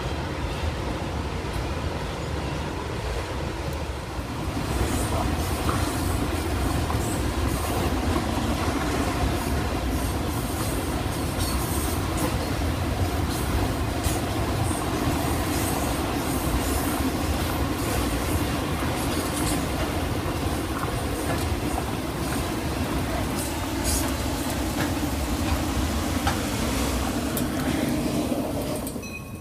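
Train rolling past on the track, its wheels clicking over rail joints. The sound grows louder about five seconds in and falls away near the end.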